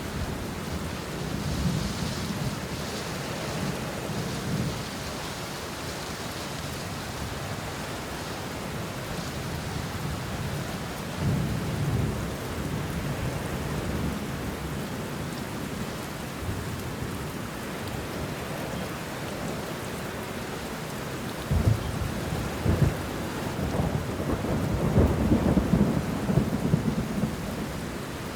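Steady rain falling on banana leaves and bushes, with rolls of thunder. The thunder rumbles low a few times, and a louder, sharper roll breaks in after about twenty seconds and carries on to near the end.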